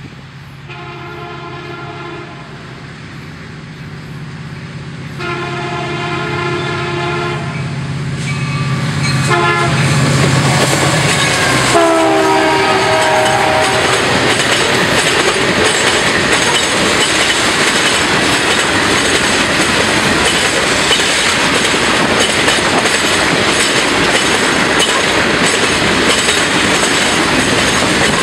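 A freight train's diesel locomotive blows its air horn in the grade-crossing pattern, long, long, short, long, over the low drone of its engine, both growing louder as it approaches. The horn's pitch drops as the locomotive passes about twelve seconds in. After that the freight cars rumble and clickety-clack over the rails, steady and loud.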